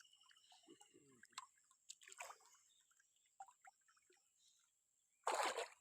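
Faint drips and small water sounds, with one short splash of water near the end.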